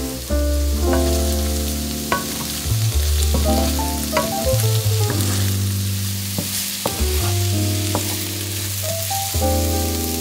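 Diced potatoes and sliced onion sizzling in olive oil in a nonstick frying pan, stirred with a wooden spatula that scrapes and knocks against the pan now and then. Background music plays underneath.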